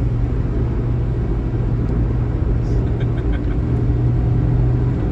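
Intercity coach bus at highway speed, heard from inside the cabin: a steady engine and road drone with a low hum holding one pitch.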